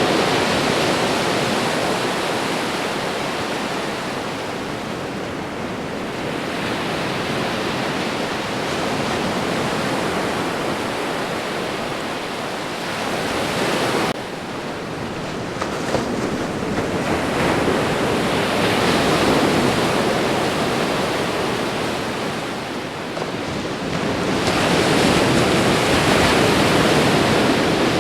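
Ocean surf: waves breaking and washing in a steady rush of noise that swells and eases every several seconds, with a sudden drop in level about halfway through.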